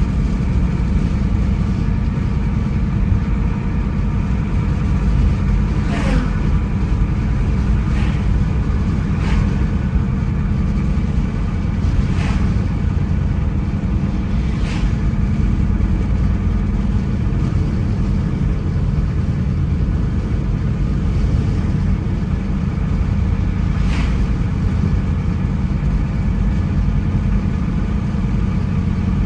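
Car driving on the road: a steady low rumble of engine and tyres, with a few brief sharp clicks or ticks at irregular moments.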